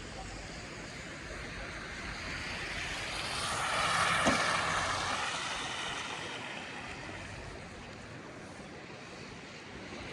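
A vehicle passing by on the street, its noise swelling to a peak about four seconds in and then fading away.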